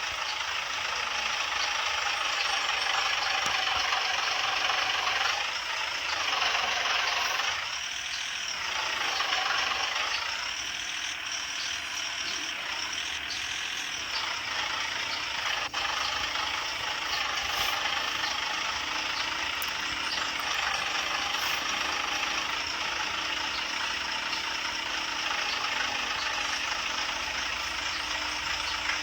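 Heavy truck engine sound effect running steadily, with a couple of dips and rises in pitch in the first third.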